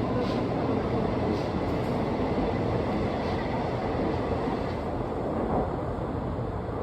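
KRL Commuterline electric train running through the station: a steady rumble of wheels on the rails, with a few faint clicks, easing slightly near the end.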